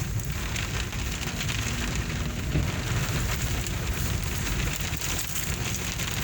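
Steady rain falling and splashing on surfaces: an even hiss with a low rumble underneath.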